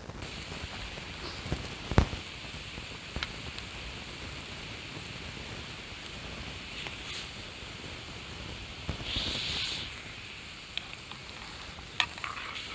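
Food sizzling in a pan over a campfire, a steady hiss with scattered sharp pops from the burning wood. The sizzle swells briefly just past the middle.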